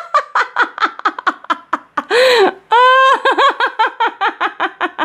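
High-pitched giggling: a quick run of short laughs, about five a second, with a couple of longer drawn-out notes in the middle.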